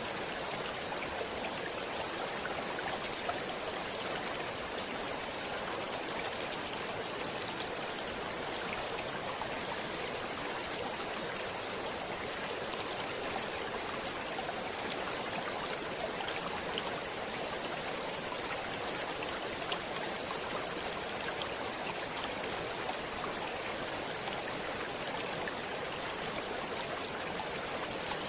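Flowing stream water: a steady rush of running water with small splashes through it.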